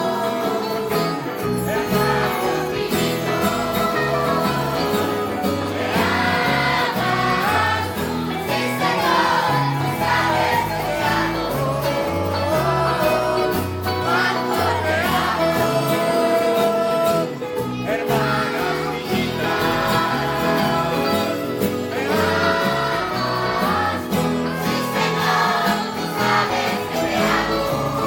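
Children's choir singing a lively gospel chorus in unison, with instrumental accompaniment and a steady beat.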